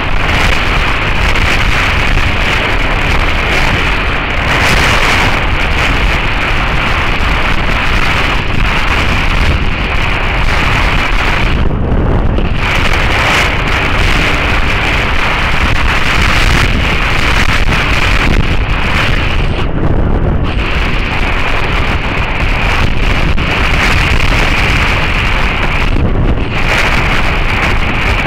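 Heavy wind buffeting on the microphone of a moving Suzuki SV650S motorcycle, with the bike's V-twin engine running under it. The hiss briefly drops away three times.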